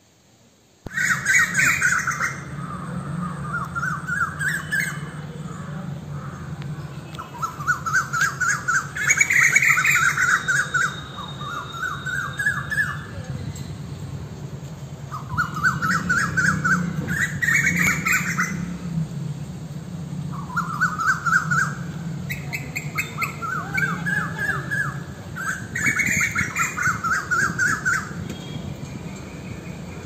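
Birds calling in forest: repeated runs of fast chattering notes that climb in pitch, each lasting a second or two and coming every few seconds, over a steady low hum. The sound starts abruptly about a second in.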